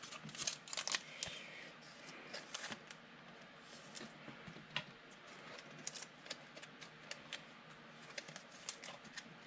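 Football trading cards being handled and flipped through by hand: faint, irregular clicks and light rustles of card stock sliding against card stock.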